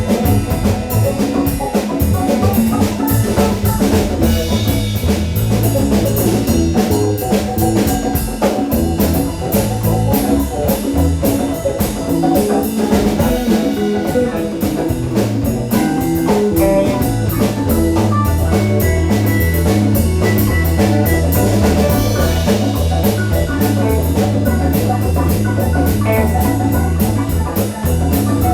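Live rock band playing: drum kit keeping a steady beat with cymbals, over electric guitar and bass.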